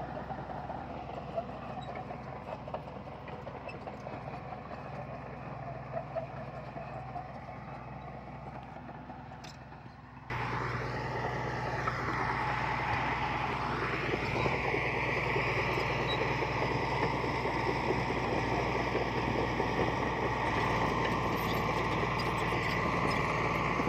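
Diesel engine of heavy earthmoving machinery running steadily. It fades slightly over the first ten seconds, then about ten seconds in it suddenly becomes much louder and stays steady, with a slowly wavering higher whine.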